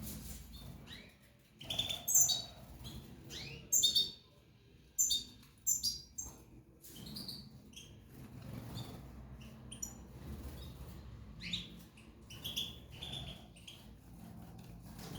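Small pet birds chirping in short, scattered calls, loudest around two, four and five to six seconds in, over a low steady hum.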